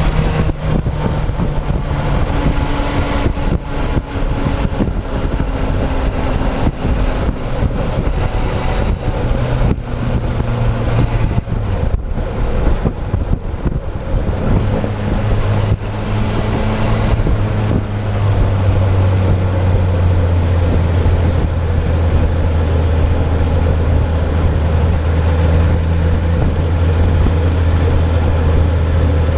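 Motorcycle engine running during a ride, its note shifting up and down with throttle and gear changes, with wind noise on a tank-mounted camera's microphone. About halfway through, the engine settles into a steadier, louder low note.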